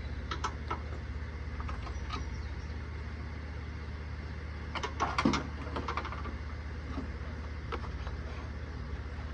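Scattered light clicks and knocks of metal parts and tools being handled during work on a tractor loader control valve, the loudest cluster about five seconds in, over a steady low hum.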